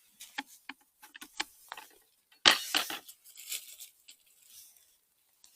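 Irregular small crackles and snaps of twigs and leaf litter, with a louder rustle and crunch about two and a half seconds in.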